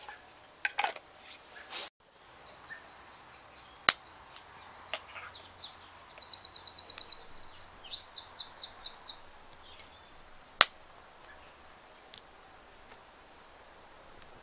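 A songbird singing a fast trill, then a run of repeated notes. Two sharp cracks about seven seconds apart are the loudest sounds.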